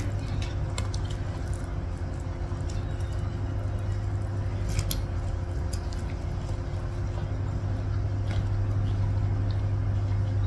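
A person chewing a mouthful of vegetables eaten by hand, with a few small clicks and smacks, over a steady low hum that is the loudest thing throughout.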